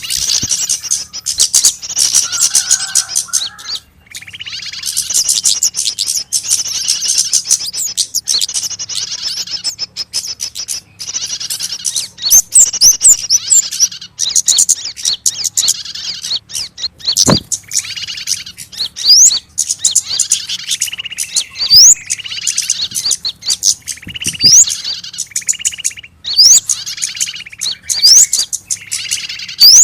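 Many small birds chirping and twittering in a busy, excited chorus. Short rising whistles repeat over and over, mixed with lower chattering notes, as in a lure call meant to draw small birds in.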